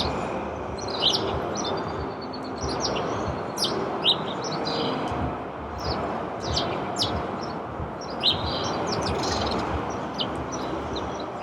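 Small birds chirping repeatedly in short high calls over a steady background hum of noise.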